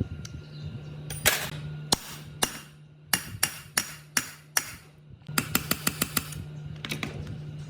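Sharp knocks in quick series over a steady low hum: a few single strikes, then five about a third of a second apart, then a faster run of about eight, and one more near the end.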